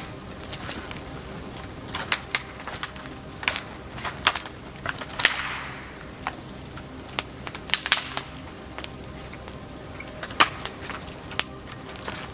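Wood campfire crackling, with irregular sharp pops and snaps; one louder pop about five seconds in trails off in a short hiss.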